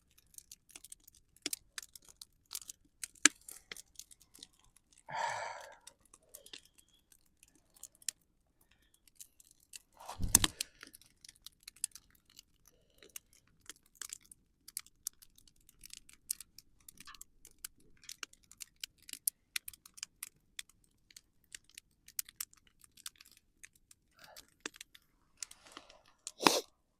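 Wood campfire crackling with frequent irregular sharp pops and snaps. A short voice-like sound comes about five seconds in, and a dull thump about ten seconds in.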